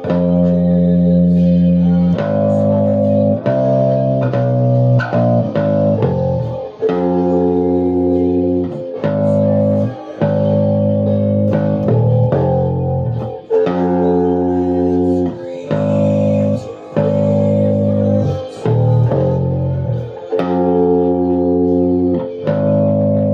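Guitar music with bass: sustained chords that change every second or so, with short breaks between them.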